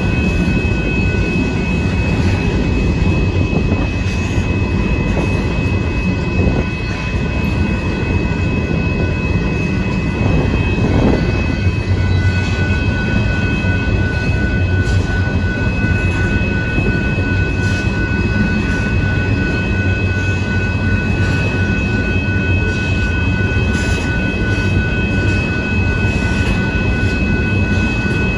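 Freight train of covered hopper cars rolling past at a steady pace: a continuous rumble of wheels on rail, with a steady high tone over it and a second, lower tone joining about halfway through.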